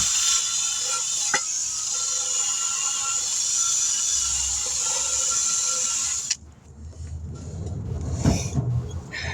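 Compressed air hissing steadily with a whistling tone for about six seconds, then cutting off suddenly.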